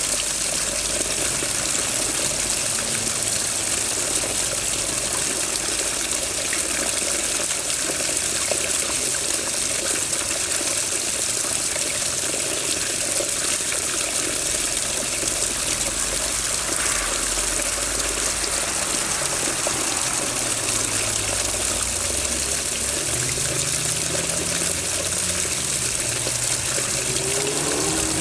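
Water running steadily in a constant, rushing flow. A faint low hum rises underneath in the last several seconds.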